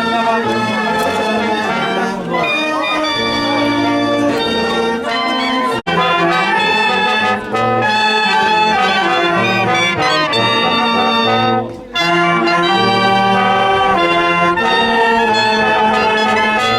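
Brass band music with trumpets and trombones playing a tune. The sound drops out abruptly for an instant about six seconds in and dips briefly near twelve seconds.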